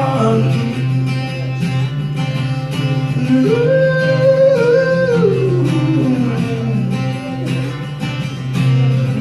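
Live acoustic rendition of a country-rock song: acoustic guitar playing between vocal lines, with a single melody line in the middle that rises, holds and slides back down.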